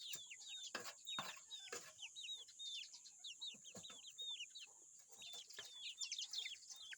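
Chickens calling while being fed: many short, high-pitched peeps that each drop in pitch, overlapping and repeating several times a second, with a few soft clicks mixed in.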